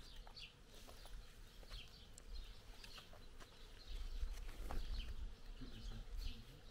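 Small birds chirping repeatedly in short calls, with a few light clicks and a low rumble from about four seconds in.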